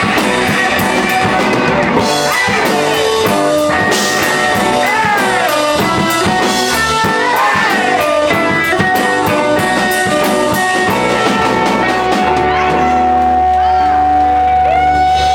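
Live rock band playing: a guitar lead with many bent notes over drum kit and bass. From about twelve seconds in, the band holds one long sustained chord with a steady low bass note.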